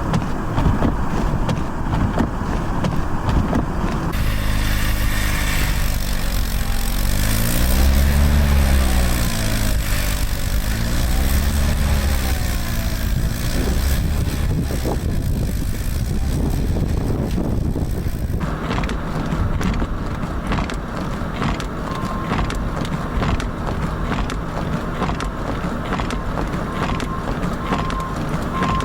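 Vehicle engines and heavy wind noise in a blizzard. In the middle an engine revs up and down several times, as a vehicle stuck in snow does, and a few short high beeps sound near the end.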